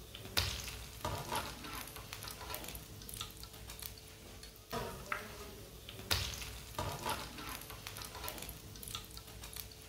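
Pakoras sizzling in hot oil in a frying pan as a metal spatula and wire skimmer lift them out, with several sharp scrapes and clinks of metal on the pan, the loudest about six seconds in. The pakoras are browned on both sides, so frying is done.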